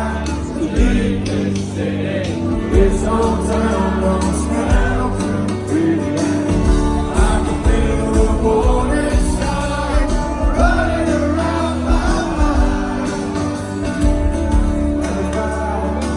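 Live band music with a male lead vocal singing over sustained chords and a steady bass line.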